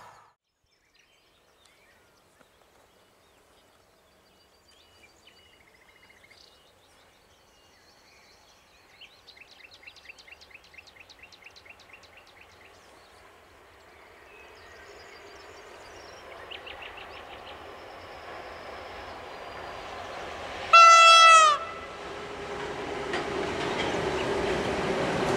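An ET22 electric freight locomotive approaches. Its running noise grows steadily louder, and about two-thirds of the way through it sounds one short horn blast of under a second, the loudest sound here.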